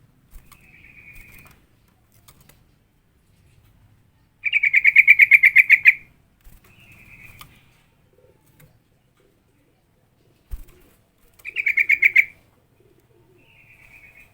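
Yellow-vented bulbul (trucukan) giving bouts of fast, rattling chatter. Two bouts are loud, about five and eleven seconds in; fainter, shorter ones come between them.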